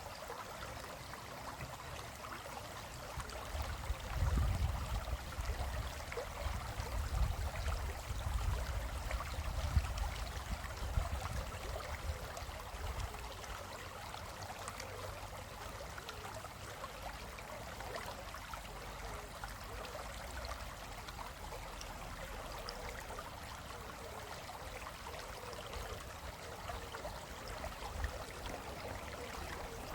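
Small stream running and splashing over rocks, a steady rushing and trickling. From about four to thirteen seconds in, an uneven low rumble rises under it and is the loudest part.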